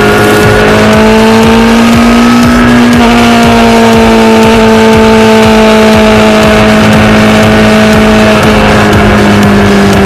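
Motorcycle engine running at a steady cruising speed, its pitch holding nearly level with slight drifts.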